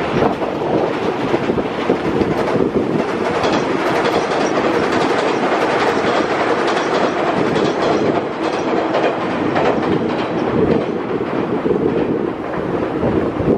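A 185 series electric train crossing a river bridge: a steady, loud rumble of the passing cars with the repeated clatter of wheels over rail joints.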